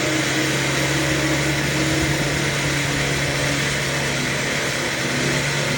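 Ford 7.3 Powerstroke V8 turbo-diesel idling steadily while warming up after a cold start.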